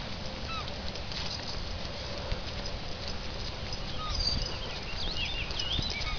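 Steady low rumble of wind and movement with soft footfalls, and a small bird chirping: a couple of notes near the start, then a quick run of rising and falling chirps in the second half.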